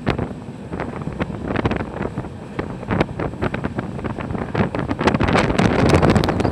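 Wind buffeting the microphone from a moving express train, with the wheels clicking and rattling irregularly over the rails.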